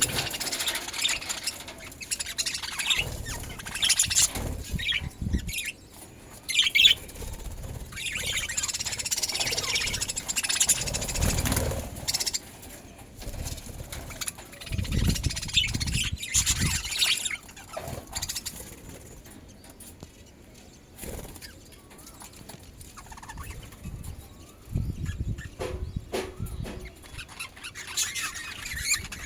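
Budgerigars chirping and chattering on and off, with scattered bursts of fluttering and rustling.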